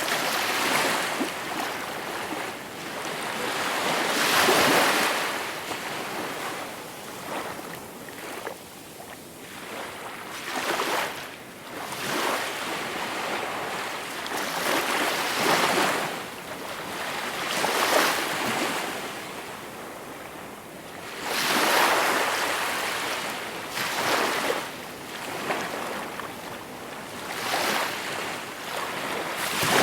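Gentle sea waves breaking and washing on the shore, the surf swelling and fading every few seconds, with no wind or boat noise standing out.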